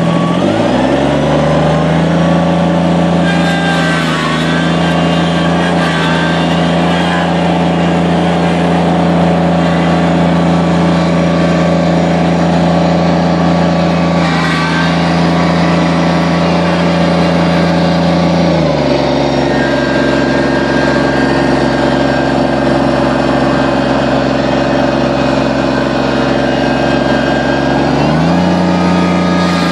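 Kubota BX2360 compact tractor's three-cylinder diesel engine running at speed while driving. It revs up in the first second and holds a steady note, then drops to a lower note about two-thirds through and climbs back up near the end.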